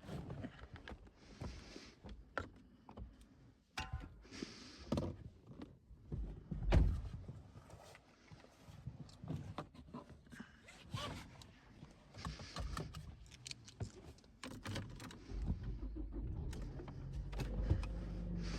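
Scattered knocks, clicks and soft rustling of gear being handled. About 15 seconds in, the Ford Escape's engine starts and runs at a steady idle.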